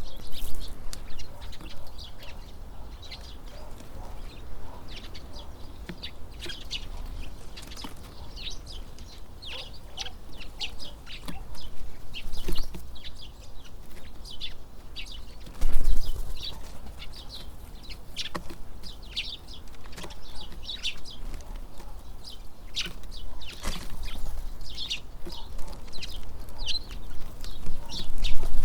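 Tits calling at a feeder, with many short, high chirps throughout, over a low rumble of wind on the microphone that swells in gusts, the loudest about sixteen seconds in.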